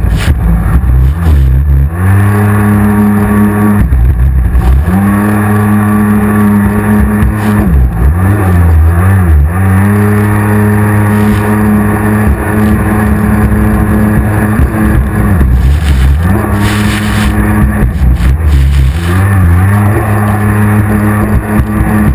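Racing jet ski engine running hard, its pitch dipping and climbing again several times as the throttle is eased and reopened.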